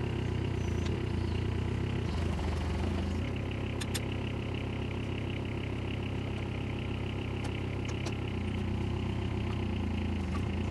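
Diesel engine of a Case 420CT tracked skid steer running steadily at idle, its note shifting slightly about three seconds in. A few sharp metallic clicks come through, twice around the middle and twice more later on.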